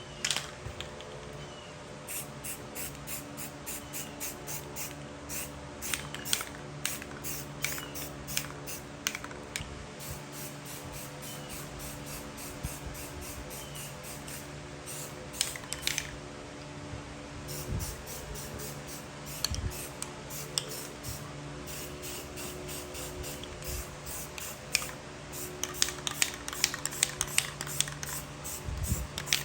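Rapid runs of short hissing strokes, several a second, with brief pauses between runs, over a steady low hum.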